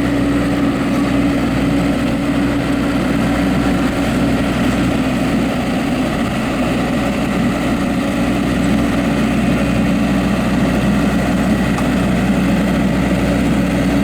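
Vermeer Navigator D36x50 Series II directional drill's diesel engine running steadily, with a constant low hum and no change in speed.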